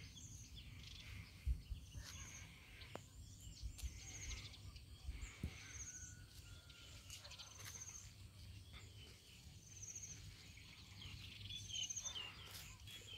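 Faint outdoor ambience with birds calling: a short, high buzzy note repeats every second or two among scattered twittering.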